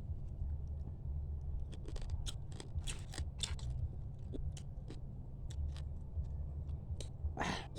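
Mud crab shell cracking and crunching as it is eaten: a run of quick sharp clicks through the middle, with a breath near the end over a steady low hum.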